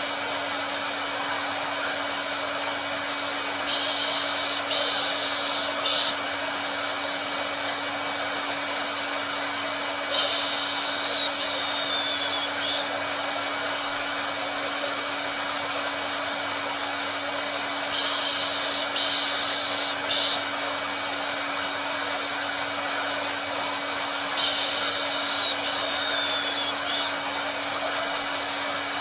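Hair dryer blowing steadily: an even rushing noise over a constant motor hum. Brief brighter hissing bursts come back about every seven seconds in a repeating pattern.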